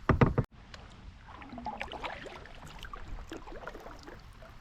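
Kayak paddling on a river: scattered small splashes and drips from the paddle strokes. Right at the start a brief loud low rumble on the microphone cuts off abruptly about half a second in.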